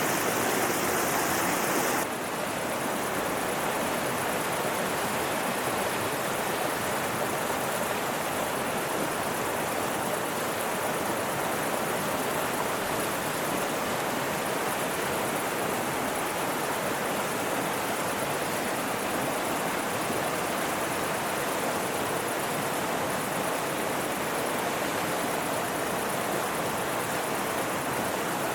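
Mountain river flowing: a steady rush of water that drops slightly in level and brightness about two seconds in.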